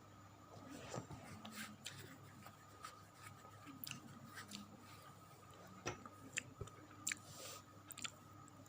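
A person chewing tempeh close to the microphone: faint, irregular mouth clicks and crackles, with a few sharper ones near the end.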